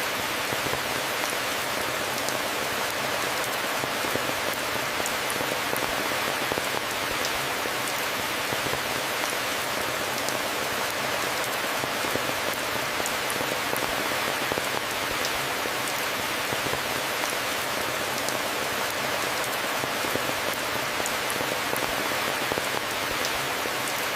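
Steady rain falling, an even hiss dotted with small drop ticks.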